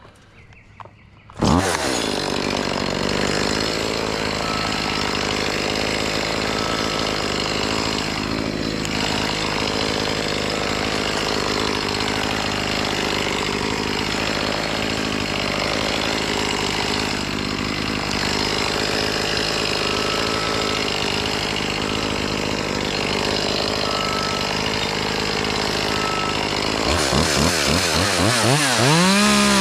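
Chainsaw starting about a second and a half in and idling steadily. Near the end it revs up sharply to full throttle and holds there.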